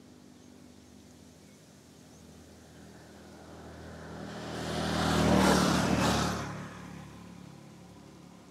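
A motor vehicle passing close by on the road: its engine hum and tyre noise build up, peak about five to six seconds in, then fade away.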